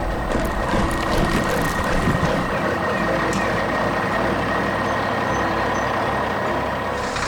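Truck sound effect: a loud, steady, noisy mechanical running sound with a thin high tone held throughout and a few clicks in the first half.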